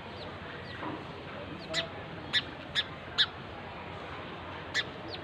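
Small birds chirping: about five short, sharp, high chirps in the second half, with a few fainter calls before them, over a steady background hiss.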